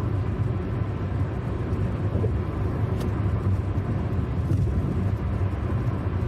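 Steady low rumble of a vehicle in motion, like road and engine noise in a car.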